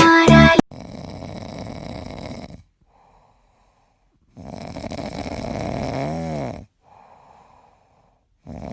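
Snoring: long, noisy, rasping breaths of about two seconds each, alternating with fainter ones, one with a wavering pitched snore just past the middle. Loud music cuts off about half a second in.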